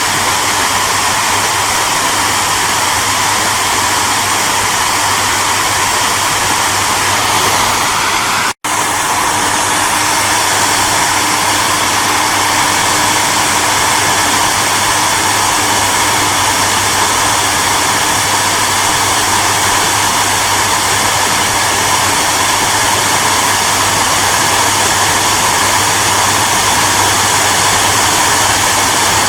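Hair dryer running steadily, a constant whooshing hiss over a low motor hum, with a split-second drop-out about eight seconds in.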